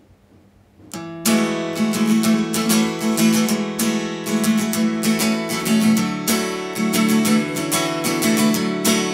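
Acoustic guitar starting about a second in and strumming a steady chordal intro, with repeated crisp strokes over ringing chords.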